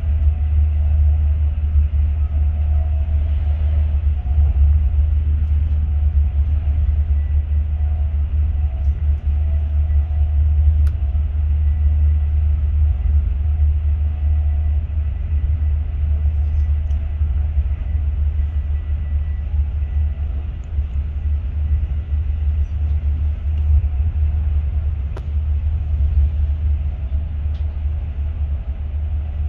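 Class 43 High Speed Train running steadily, heard from on board: a continuous low rumble with a steady hum above it and a few faint clicks.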